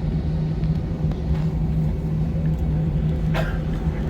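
Steady low rumble and hum inside a jet airliner's cabin after landing, with a short clack about three and a half seconds in.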